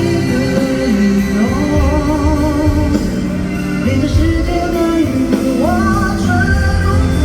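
Live pop-rock band music with full drums and bass, and a voice singing long, wavering held notes. One line rises in pitch about five and a half seconds in and holds high to the end.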